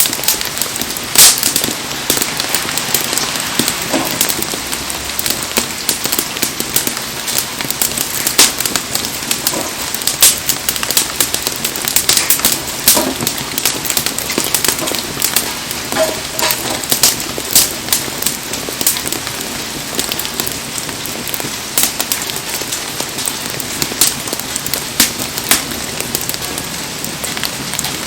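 Heavy rain falling steadily, with frequent sharp pops and crackles from a wood campfire burning in it.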